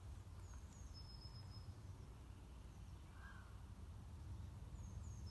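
A woodland bird singing faintly, the same short high phrase twice: two quick falling notes then a held thin whistle, about a second in and again near the end. A low steady rumble runs underneath.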